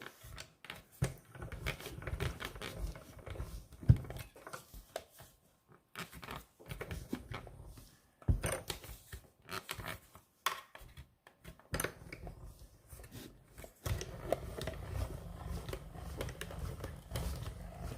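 Hand-cranked mini die-cutting machine running a plate sandwich through in several stretches of low rumbling, with pauses, clicks and taps of plates and paper being handled between them.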